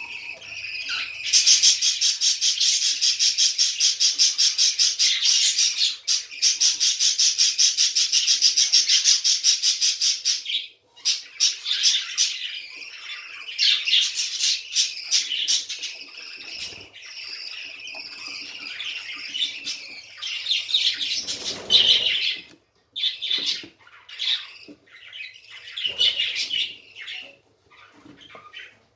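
Budgerigars chattering and squawking: a fast, even rattling trill for roughly the first ten seconds, then broken, uneven chirps and squawks.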